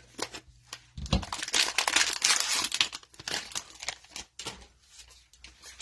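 Cellophane wrapper of a football card cello pack crinkling and rustling as it is opened and handled, with many small crackles. The crinkling is loudest from about one to three seconds in, then thins to lighter rustling.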